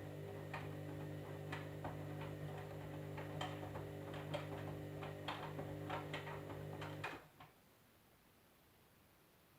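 Candy EcoMix washing machine running: a steady hum with irregular clicks, cutting off suddenly about seven seconds in.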